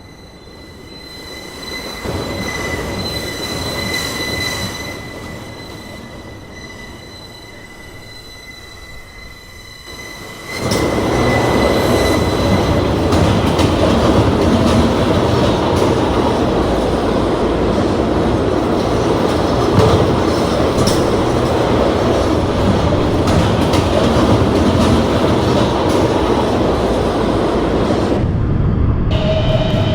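New York City subway Z train running between stations, heard from inside the car. At first the wheels and rails rumble under a steady high-pitched whine. About ten seconds in, the noise jumps abruptly to a much louder, dense rush of wheels on rail that carries on until near the end.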